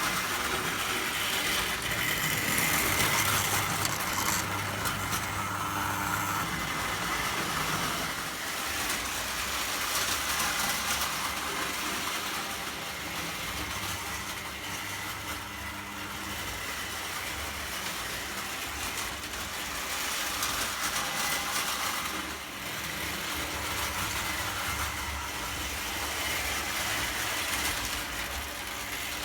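Prewar Lionel O gauge toy train running steadily on tinplate track: an electric motor hum under the noise of metal wheels rolling on metal rail.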